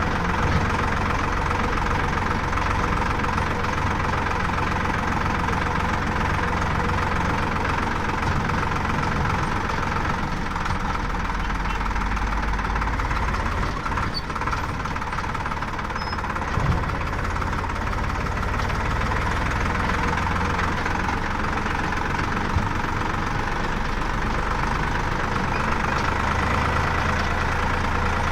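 Diesel engine of a JCB loader or tractor running steadily, its low hum shifting a few times as the load changes.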